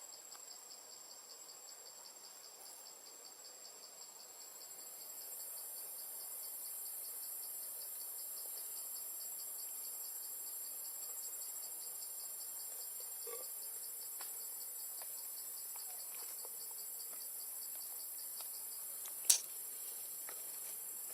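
Insects calling steadily in layers: a fast pulsing buzz, a thin high steady whine, and a higher hiss that swells about five seconds in. One sharp click near the end.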